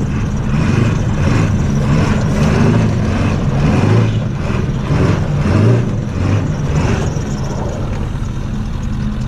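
Diesel pickup truck's engine revving hard in repeated surges, with the loudest pushes about four and six seconds in.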